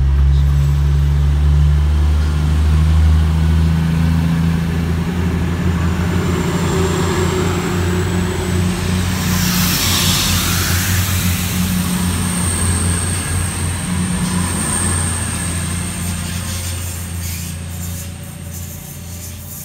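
Class 222 Meridian diesel multiple unit pulling out past the platform, its underfloor diesel engines giving a steady low drone. The hiss of wheels on rail swells about halfway through and there is a thin high whine. The sound fades steadily as the train draws away.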